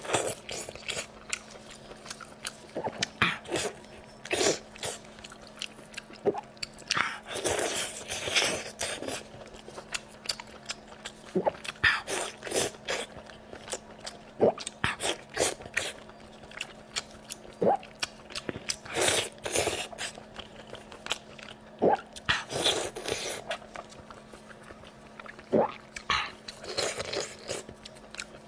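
Close-miked chewing and biting of soy-braised Dongpo pork belly: irregular mouth clicks and smacks, with a faint steady hum underneath.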